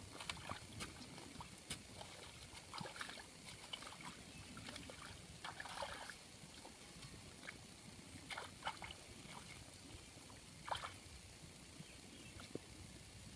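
Faint water sloshing and splashing, with scattered small clicks and knocks.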